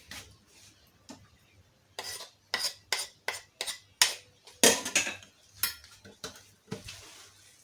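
A spoon scraping and knocking against a cooking pot as cooked vermicelli for seffa is stirred and scooped, about a dozen short, irregular strokes starting about two seconds in.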